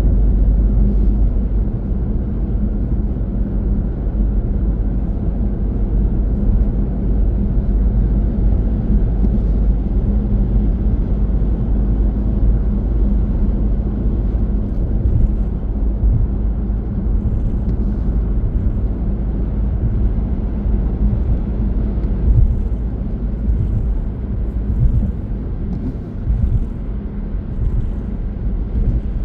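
Car driving at steady speed: a continuous low rumble of tyre and engine noise.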